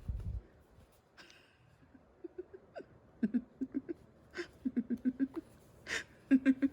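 Short, quick voice sounds in runs of several a second, like soft chuckling or hiccuping laughter, with a few sharp clicks in between.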